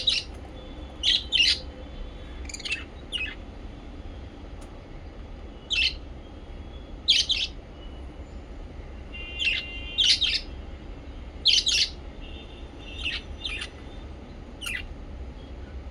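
Small pet parrots chirping: short, sharp, high chirps, often in pairs, coming every second or so, over a faint low hum.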